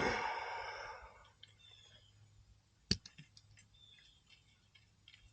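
Small clicks and taps of hand tools and metal fittings being handled, after a short rustle that fades at the start, with one sharper click about three seconds in.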